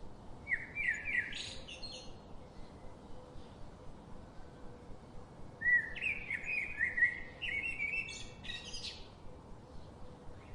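A songbird singing two phrases, each a quick run of falling chirps that ends in higher, sharper notes. The first comes about half a second in; the second, longer one starts a little before six seconds in. Both sit over a faint steady background hiss.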